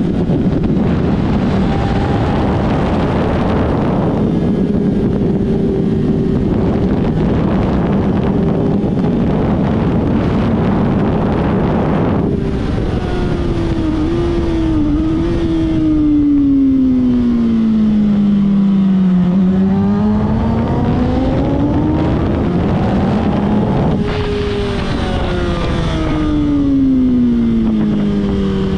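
A car engine running hard on a race circuit, with a heavy rushing noise through the first half. In the second half its pitch slides down over several seconds as the car slows, then climbs as it accelerates, and this happens twice.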